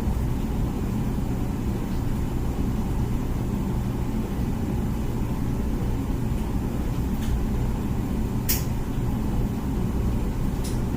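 Comfee dishwasher running its wash cycle: a steady low hum of the pump and circulating water, with three short sharp clicks in the second half.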